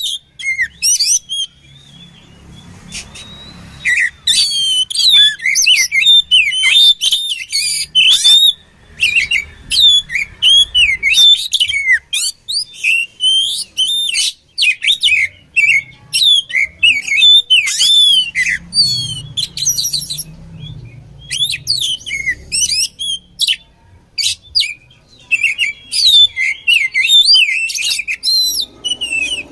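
Oriental magpie-robin (kacer) singing: a loud, rapid, varied song of whistles, chirps and trills in quick succession, with a brief lull a couple of seconds in.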